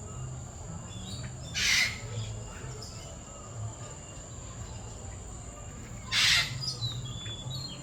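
Caged birds in an aviary giving two loud, harsh squawks about four and a half seconds apart, over a steady high-pitched whine.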